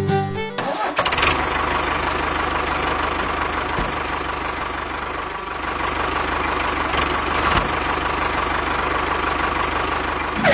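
A motor running steadily for about ten seconds, with a constant hum and a fast, even pulsing underneath. It starts about a second in and stops sharply at the end.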